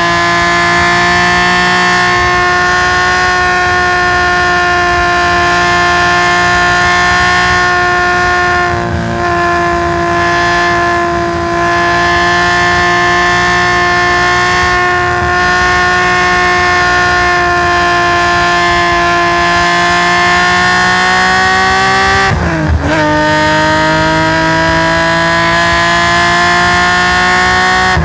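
Fully tuned Nissan S20 twin-cam straight-six in a Hakosuka Skyline GT-R, pulling hard at high revs with a loud, steady note that climbs slowly in pitch. About 22 seconds in a quick gear change drops the pitch, and it climbs again.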